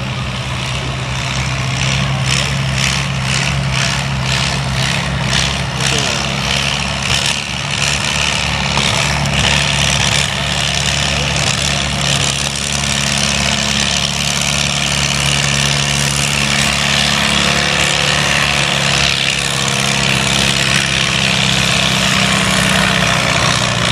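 Heavy engine of a competition puller at a tractor and truck pull, running steadily with an even pitch and faint regular ticking over the top for the first several seconds.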